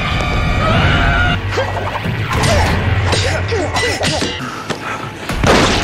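Fight-scene sound effects: a rapid run of punches and blows over dramatic score music, with a louder crash near the end.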